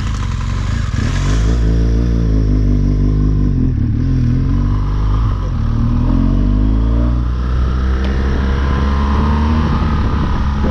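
BMW R1200GS Rallye's boxer-twin engine accelerating through the gears, its pitch climbing, dropping at each shift, then climbing again.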